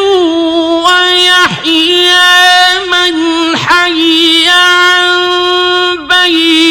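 Male reciter chanting the Quran in the slow, melodic mujawwad style, holding long high notes with ornamental wavers and brief breaks between phrases.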